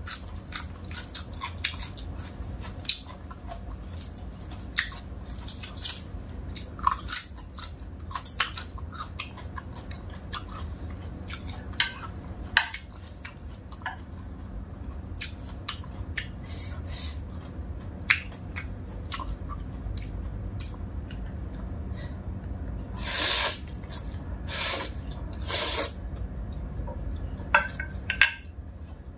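A person chewing and biting mouthfuls of stir-fried dry instant noodles and raw lettuce and greens: many short, wet mouth clicks and smacks, with two louder bursts about a second long near the end.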